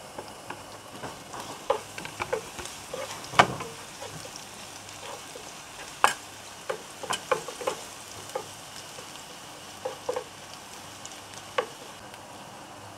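Chopped garlic and sliced ginger sizzling in hot oil as they are stir-fried: a steady frying hiss with irregular clicks and taps of the stirring utensil against the pan, the sharpest about three and a half and six seconds in.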